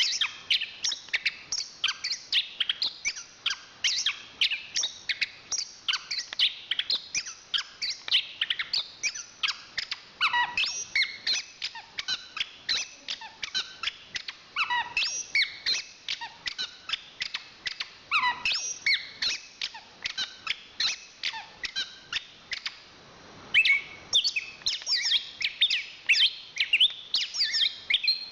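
Chestnut-capped thrush (anis kembang) singing a fast, unbroken run of sharp, varied chirps and whistled notes, with a short pause about twenty-three seconds in.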